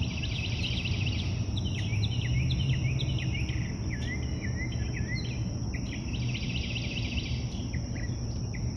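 Several birds chirping and singing in quick, repeated short notes, with a steady insect-like hiss above them and a steady low rumble underneath.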